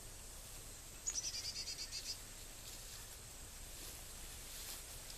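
Outdoor ambience: a steady high insect drone, with a quick run of high bird chirps, about ten a second, about a second in and lasting about a second.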